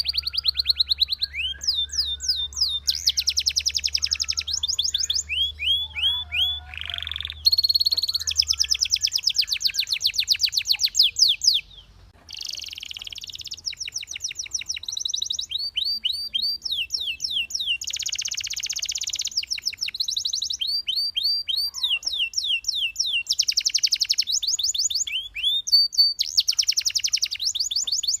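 Belgian canary singing a long continuous song of rapid trills and rolls and quick rising and falling whistled notes, switching to a new phrase every second or two, with a brief break about twelve seconds in.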